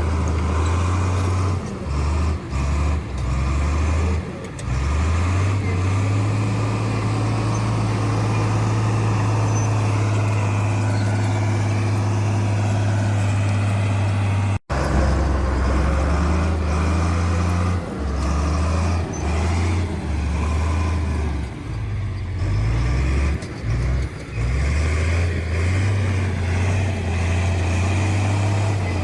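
Bulldozer's diesel engine running loud and steady, its pitch dropping and rising again several times as the load changes. There is a brief break about halfway through.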